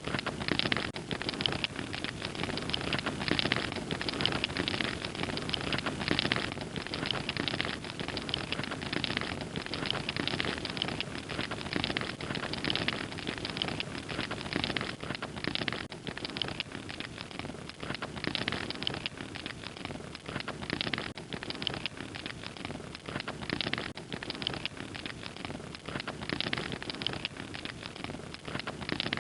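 Fire crackling steadily, a dense run of small snaps and pops over a low rushing.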